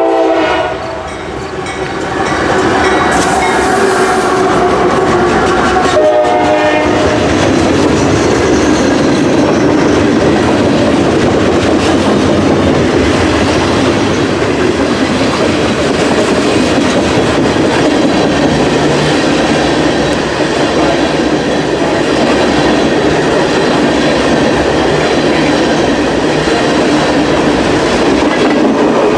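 A manifest freight train led by GE diesel locomotives passing close by: its horn sounds at the start and once more briefly about six seconds in, then a steady loud rumble of the locomotives and clattering wheels of the cars going by.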